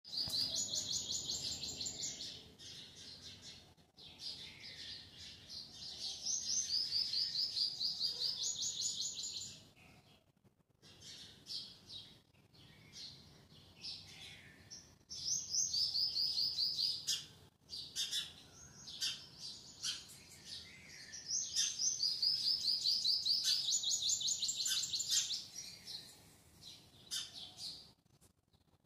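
Small birds chirping in fast runs of high, repeated notes, each run lasting a few seconds, with quieter gaps between.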